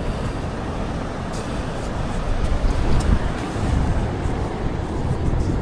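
Wind rumbling on the microphone over the steady wash of surf, with a few faint ticks.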